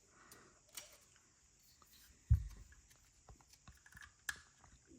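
Plastic building bricks being handled and pressed into place: scattered faint clicks, with one louder knock a little over two seconds in.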